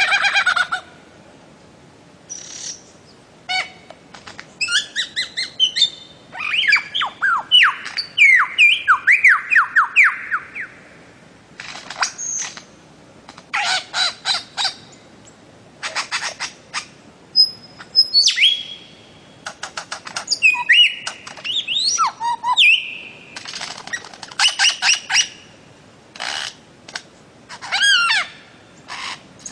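Bird of paradise calling: a varied string of whistled notes, quick repeated call series and downward-sliding cries, in short bouts with brief pauses between them.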